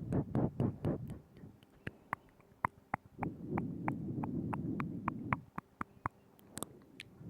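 Close-miked ASMR mouth sounds: many short, wet tongue and lip clicks at irregular intervals, with stretches of low, breathy mouth noise about a second long and two seconds long.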